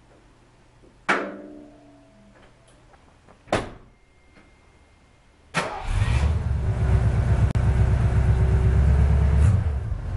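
1967 Ford Mustang's engine being started after sitting through the winter, on a freshly reconnected battery: it comes in suddenly about five and a half seconds in and runs loud and steady for about five seconds, then cuts off. Before it, a metallic clank with a short ring and a single click.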